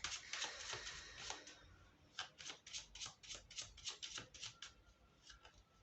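Tarot cards being shuffled by hand: a dense patter of card slaps at first, then an even run of quick soft slaps, about five a second.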